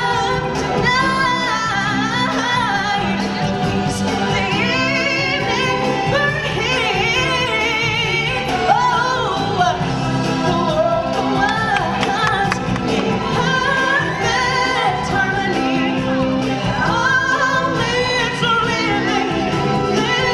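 Stage-show performers singing a song with sustained, wavering voices over a steady musical accompaniment with a low bass line.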